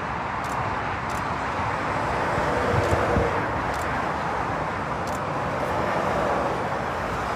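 Steady motorway traffic noise: the continuous rush of tyres and engines from lorries and cars passing below, swelling gently as vehicles go by.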